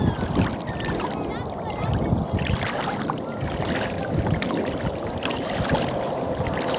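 Ocean water sloshing and lapping around the person filming, a steady noisy wash with many small crackles.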